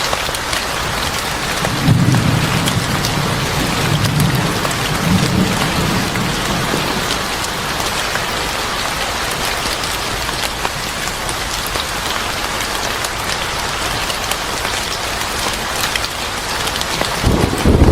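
Steady heavy rain on a surface, with a low rumble of thunder rolling in about two seconds in and fading over a few seconds, and another deep rumble building near the end. Scattered small crackles sound through the rain.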